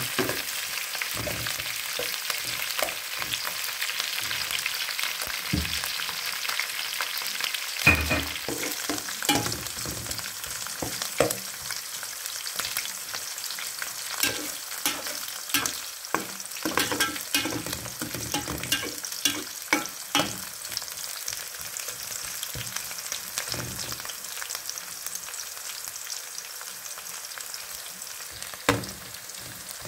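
Sliced onions, green chilies, curry leaves and whole spices sizzling steadily in hot oil in a metal pot. A metal ladle scrapes and knocks against the pot as they are stirred, in a run of clicks in the middle and again near the end.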